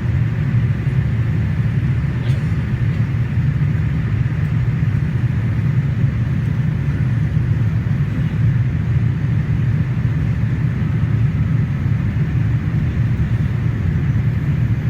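Cabin noise inside a Boeing 787-8 airliner, heard from a rear window seat: its GEnx-1B engines and the airflow make a steady low rumble with a fainter hiss above it.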